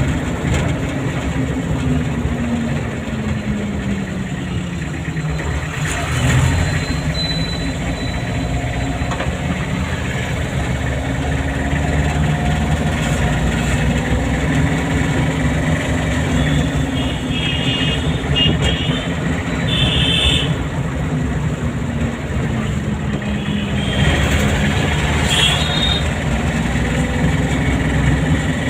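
A car's engine running while driving, its pitch rising and falling with changes of speed, over steady road noise. A few short high-pitched beeps sound in the second half.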